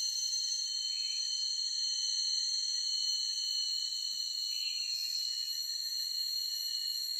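Forest insects keep up a steady, unbroken high-pitched drone made of several layered tones. A faint short chirp, likely a bird, comes about a second in and again near the middle.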